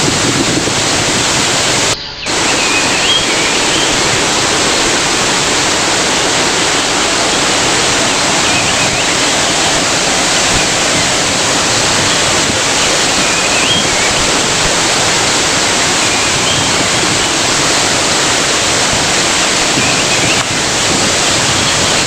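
Waterfall rushing: a loud, steady wash of falling water, broken by a momentary drop-out about two seconds in, with faint short high chirps now and then.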